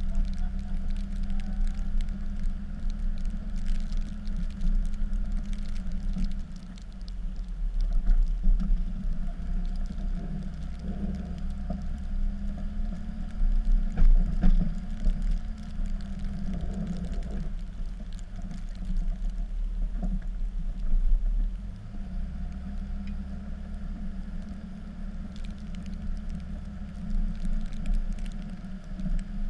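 Cummins turbo-diesel engine of a Dodge pickup running steadily under load while plowing snow, with a few short thumps and knocks.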